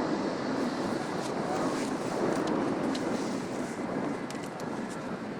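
Jet airliner engine noise, a steady rushing that slowly fades away.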